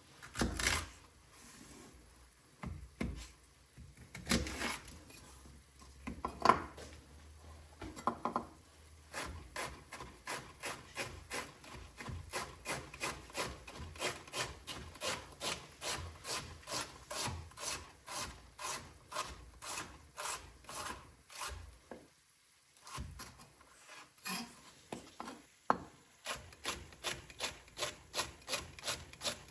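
Knife slicing a fennel bulb on a cutting board: a few separate cuts at first, then a steady run of quick slices about two a second, with a short pause about two-thirds of the way through.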